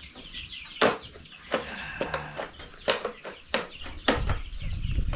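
A flock of young chickens peeping and clucking, with a few sharp knocks among them and a low rumble coming in near the end.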